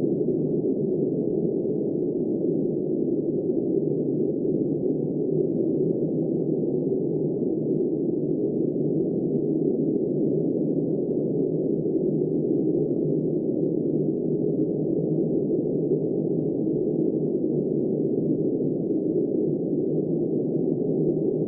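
Steady wind of a snowstorm, heard as a dull, muffled rush with no high hiss, holding an even level without gusts.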